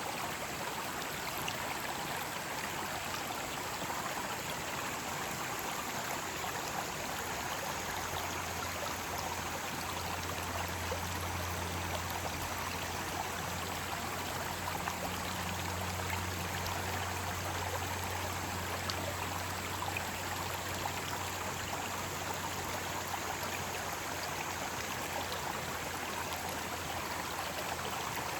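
Mountain stream rushing steadily over rocks. A faint low hum joins about a third of the way in and fades near the end.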